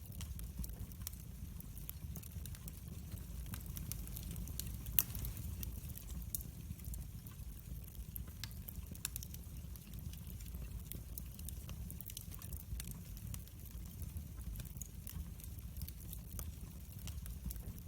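Wood fire burning in a fireplace: a steady low rumble of flame with scattered crackles and pops, one sharper pop about five seconds in.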